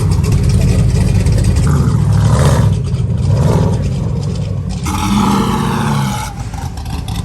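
Car engine running and revving, a steady low rumble with a brighter, higher burst of sound about five seconds in that lasts about a second.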